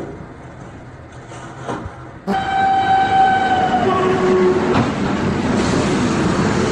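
Quiet road noise from a moving car, then about two seconds in an abrupt change to a loud passing train. Its horn sounds a held note, then a shorter, lower one, over the steady rushing noise of the train going by close.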